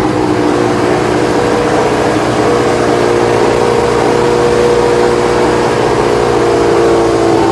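An engine running at a steady speed, its pitch sagging slightly near the end.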